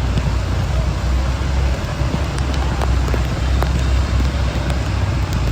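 Steady low engine rumble of a vehicle, under an even hiss of rain, with a few faint clicks.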